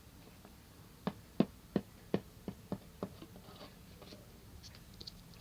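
Small plastic toy figures tapped against a hard surface as they are hopped along: about eight light, uneven taps, roughly three a second, starting about a second in.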